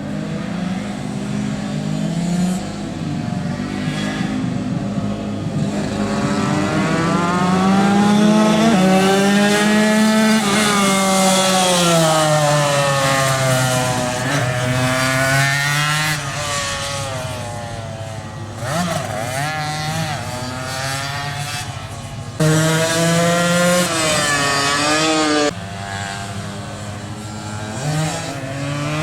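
Two-stroke racing motorcycle engines running hard, their pitch climbing and falling as they rev out and go past. The sound is loudest around 8 to 11 seconds in, and it jumps abruptly a couple of times later on.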